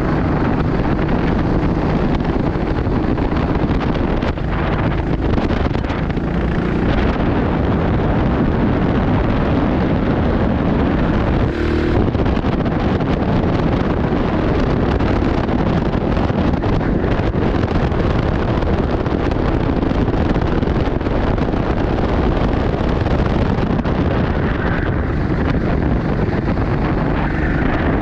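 Racing go-kart engine running on track with heavy wind noise buffeting the microphone, steady throughout.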